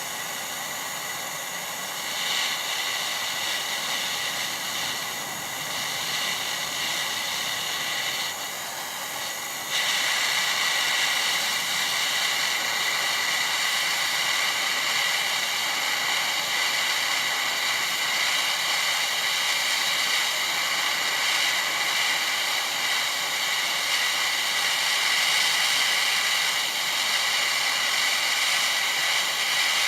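A workshop power tool's motor running steadily, a high whine over a hiss. It gets louder about two seconds in and jumps louder again about ten seconds in.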